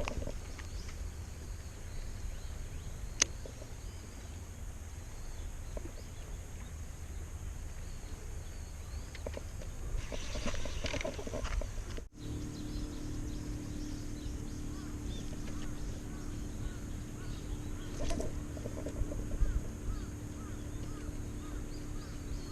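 Outdoor ambience: a steady low rumble of wind on the microphone, with faint bird calls twice. About halfway through, a steady low hum comes in.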